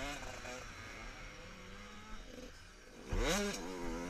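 Motocross bike engines revving, their pitch rising and falling as the throttle opens and closes. They are fainter for the first three seconds; then a nearer bike comes in loud, its pitch sweeping up and back down.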